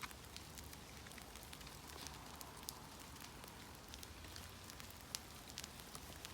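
Small birch-wood campfire crackling faintly with scattered sharp pops, one louder pop about five seconds in, over a steady light hiss of rain.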